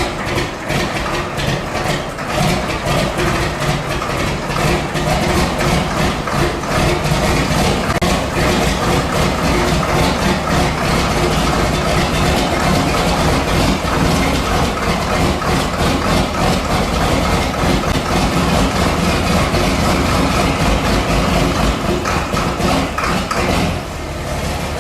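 John Deere diesel engine running steadily just after a cold start, with a fast, even firing rhythm. The sound cuts off abruptly at the end.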